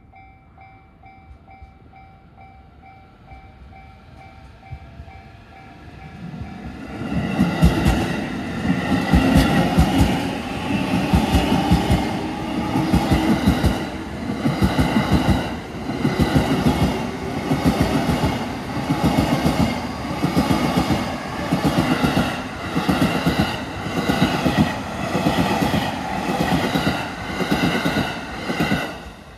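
Level crossing warning bell ringing in a steady pulsing pattern. About six seconds in, a JR E233 series 3000 and E231 series 1000 electric commuter train comes through. It is picking up speed again, and its wheels over the rail joints make a loud, rhythmic clatter, repeating a little more than once a second, that stops sharply near the end.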